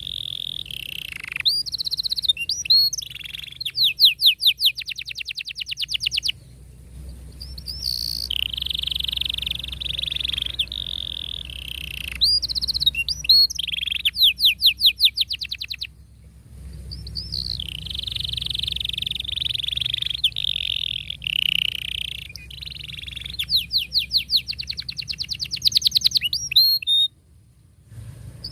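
Domestic canary singing a long song: tight rolls on a held pitch alternating with fast runs of repeated chirps, in three bouts with brief breaks between them.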